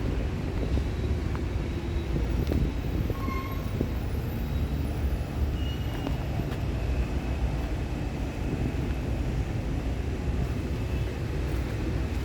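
Steady low rumble of street ambience, with a few faint clicks and short high tones.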